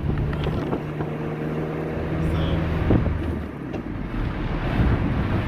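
Honda D16 inline-four engine running as the Civic drives, heard from inside the cabin with road noise and a few light clicks. The engine note drops away briefly a little past halfway, then picks up again.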